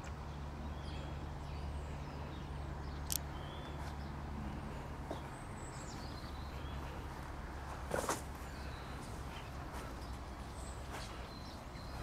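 Small birds chirping now and then over a steady low outdoor rumble, with a sharp click about three seconds in and a louder knock about eight seconds in.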